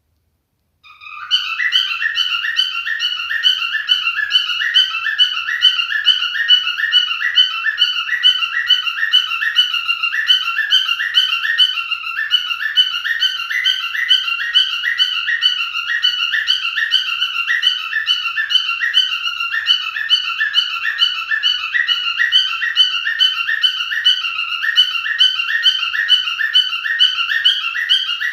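Pied cockatiel whistling a fast, repeating warbled song, starting about a second in after a brief silence and running on evenly.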